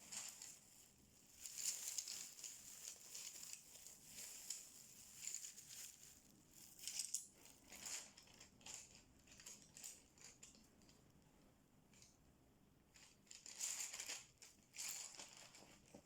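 Coloring pencil or marker-type tip rubbing on paper: faint, scratchy back-and-forth colouring strokes in irregular bursts, busiest at the start and again near the end.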